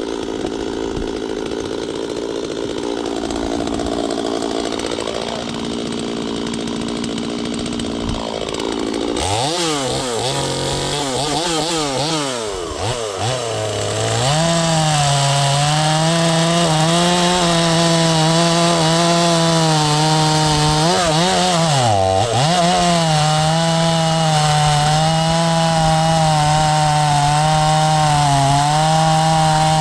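Neotec NS846 45.4cc two-stroke chainsaw, its carburettor just turned up slightly on the high and idle screws, running steadily. About nine seconds in it is revved up and down a few times, then from about halfway it is held at high revs with small wavers in pitch, as when cutting into wood, dropping briefly once near the two-thirds mark.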